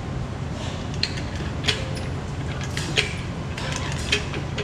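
Caulking gun with a silicone tube being loaded and worked: about four sharp, separate clicks a second or so apart, over a steady low hum.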